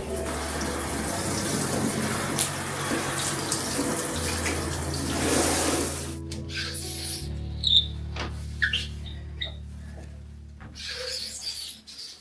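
Water running from a tap into a sink, shut off about halfway through, followed by a few light knocks and clicks. Soft background music plays underneath.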